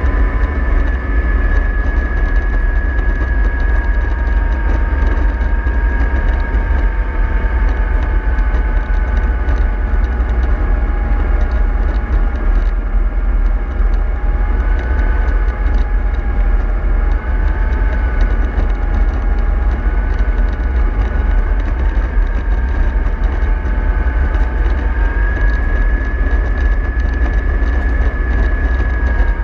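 Bus running with a deep steady rumble and a whine that slowly drifts up and down in pitch as its speed changes.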